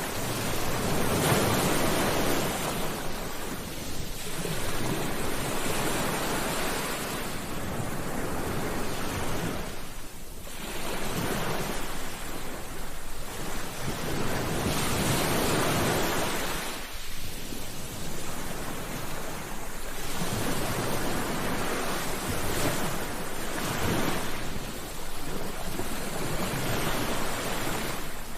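Ocean surf: waves breaking and washing ashore one after another, a rushing wash that swells and ebbs every few seconds, with brief lulls between sets.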